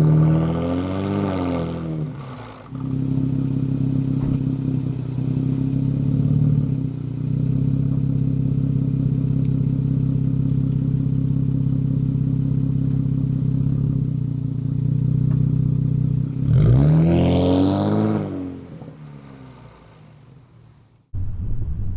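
Infiniti Q60's 3.0 L twin-turbo VR30 V6 with stock downpipes and a muffler delete, blipped once and settling to a steady idle. It is revved again about three quarters of the way through, and the revs rise and fall back each time. A faint steady high hiss runs above the idle, and the sound cuts abruptly to a different take near the end.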